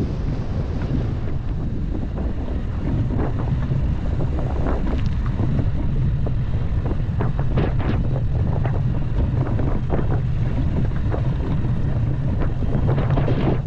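Low, steady rumble of a vehicle driving over rough off-road ground, with frequent short knocks and rattles.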